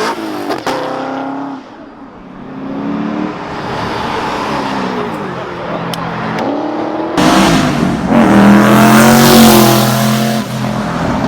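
Car engines revving and accelerating hard, one after another, their pitch climbing and dropping with each rev. About seven seconds in a louder car takes over, with a hiss above the engine note.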